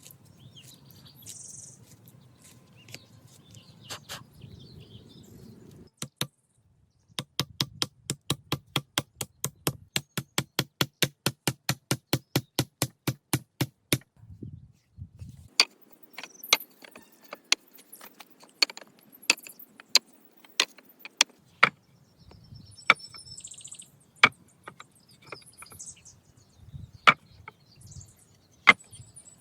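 A hand tool striking wood: first a fast, even run of about four knocks a second for several seconds, then slower, irregular, sharper strikes.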